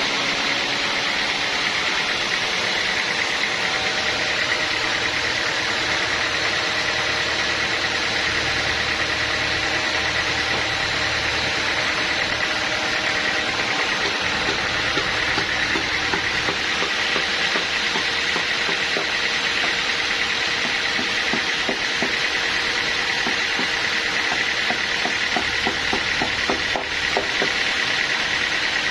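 Sawmill machinery running steadily: a constant engine drone with a steady high whine over it.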